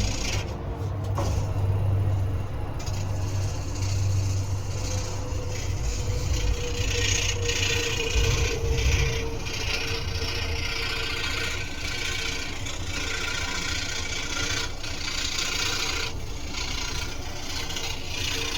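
Scroll saw running steadily with a low motor hum. From about three seconds in, its blade is cutting through wood with a rasping hiss.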